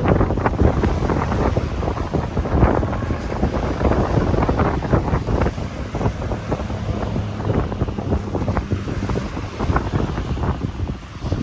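Strong gusting wind buffeting the microphone with a crackling rumble, over surf breaking on a beach. The wind eases slightly near the end.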